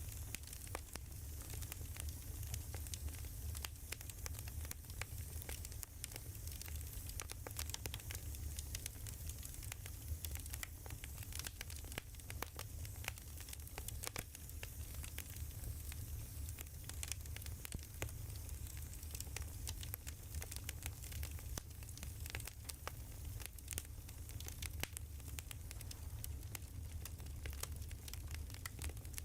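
Wood fire crackling: irregular small pops and snaps over a steady low rumble and hiss.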